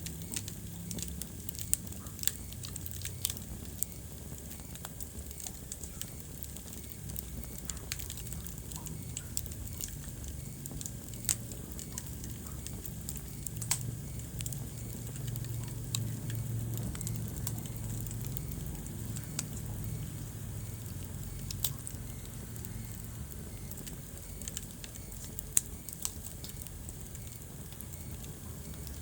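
Wood fire burning in a fireplace, crackling with irregular sharp pops over a steady low rumble of flames; a few pops stand out louder, near the start, in the middle and near the end.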